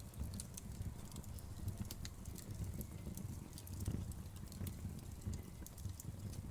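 Wood fire crackling in a fireplace: frequent small sharp pops and snaps over a steady low rumble of the burning logs.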